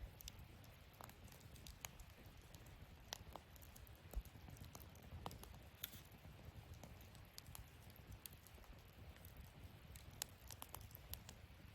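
Wood fire burning in a fire-pit stand, crackling softly with scattered small pops and ticks, one sharper pop about four seconds in, over a low steady rumble.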